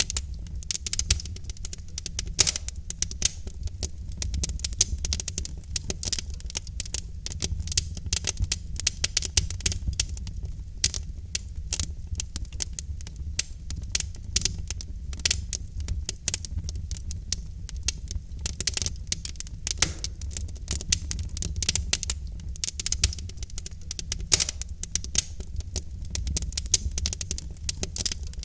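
Wood fire of burning logs in a fireplace crackling, with dense, irregular sharp pops over a steady low rumble of the flames.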